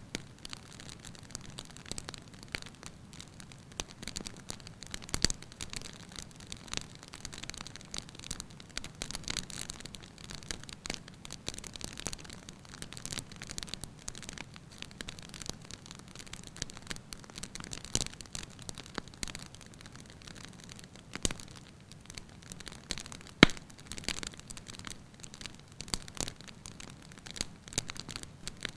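Wood fire crackling in a fireplace: irregular snaps and pops over a low hiss, with one sharp, louder pop late on.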